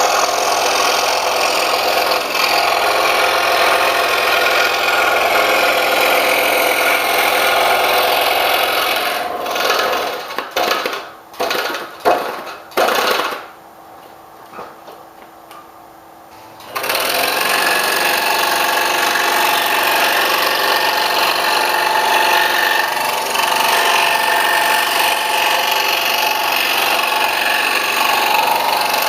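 Scroll saw with a fine reverse-tooth blade running and cutting wood. About ten seconds in it stutters and stops, with a few short loud bursts, and is quiet for a few seconds. It starts again about seventeen seconds in and cuts steadily on.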